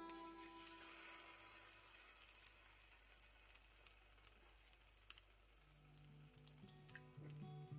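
Faint sizzle of egg-coated chicken and potato shami kababs frying in shallow oil in a pan, with scattered small crackles, strongest just after a patty goes in.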